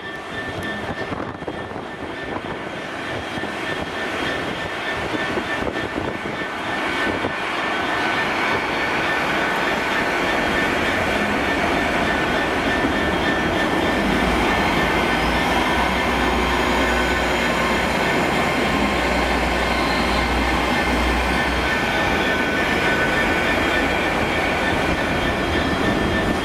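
Great Western Railway Hitachi Intercity Express Trains running past on the station tracks. The engine, wheel and rail noise grows louder over the first eight seconds and then holds steady, with a steady whine over it and a deeper rumble in the middle.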